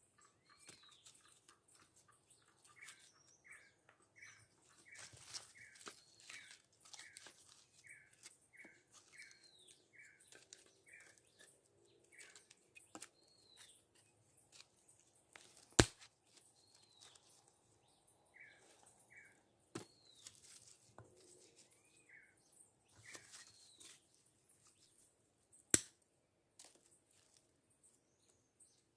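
Birds calling in woodland: one bird repeats a short chirp about twice a second for several seconds, among other scattered chirps. Faint ticks and crackles run underneath, and two sharp snaps or clicks, the loudest sounds, come about halfway through and again near the end.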